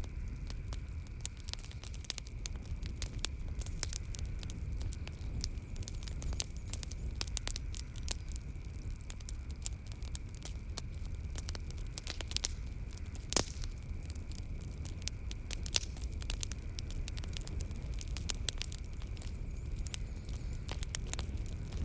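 Wood fire crackling in a fireplace: frequent irregular sharp pops and snaps over a low steady rumble, with one louder pop about thirteen seconds in. A faint steady high tone runs underneath.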